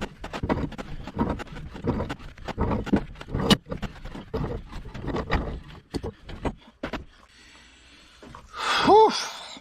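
Irregular metal knocking and scraping as a wrench works the stuck threaded parts of a boat's stuffing box loose. It quietens after about seven seconds, and a strained grunt follows near the end.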